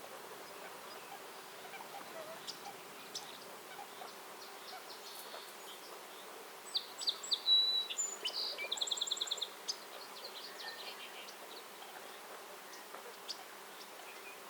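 A songbird sings one short phrase of high notes ending in a rapid, even trill, about seven seconds in. Other birds give scattered faint chirps over a steady low background buzz.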